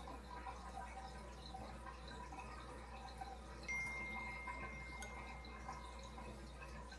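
Aquarium water trickling and dripping over a low steady hum. About four seconds in, a single clear bell-like ring sounds and fades over about two seconds.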